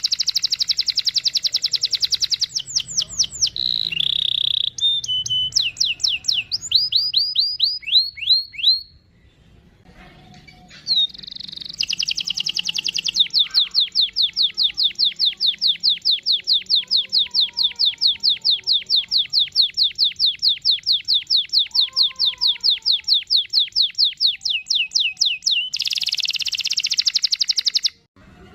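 Domestic canary singing fast rolls of rapidly repeated high notes, with a brief pause partway through, then one long unbroken trill lasting more than ten seconds.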